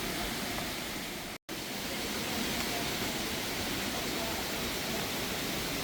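Steady rushing water noise from the exhibit's waterfall and rain, cut off for a moment about a second and a half in.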